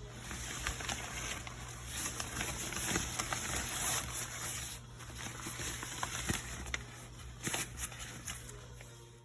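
Rain pattering, with many small irregular drips and taps, over a steady low hum.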